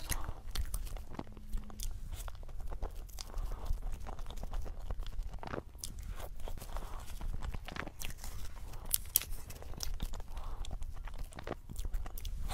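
Close-miked eating sounds of a person biting and chewing a soft white dome-shaped cake, with many small sharp mouth clicks over a steady low hum.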